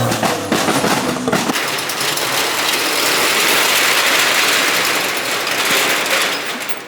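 A car engine revving hard with sharp popping crackles for the first second and a half, followed by a loud, steady hiss that fades away near the end.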